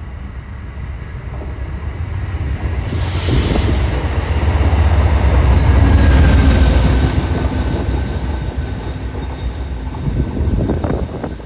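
Passenger train passing close by, its low rumble building to a peak about halfway through and then fading, with a few sharp knocks near the end.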